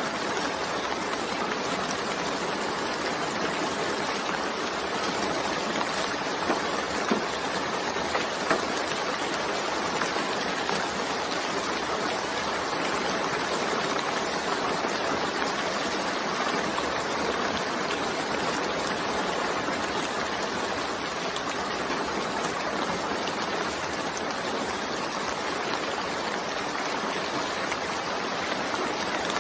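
Steady rain falling, an even hiss of water, with a few sharper taps of individual drops between about six and nine seconds in.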